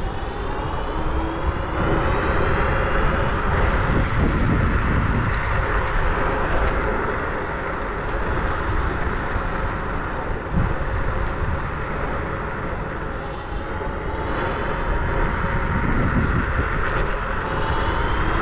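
Riding at speed: a steady wind rush on the microphone with a whine that rises and falls in pitch as the ride speeds up and slows.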